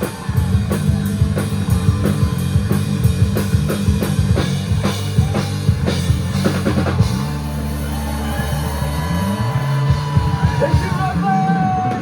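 Live rock band playing, with drum kit, bass and electric guitars. The steady drumming thins out about seven seconds in, while held bass notes and bending guitar notes carry on.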